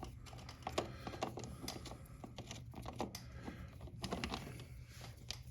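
Light, irregular metal clicks and taps as a chain press tool is worked loose and taken off a motorcycle drive chain.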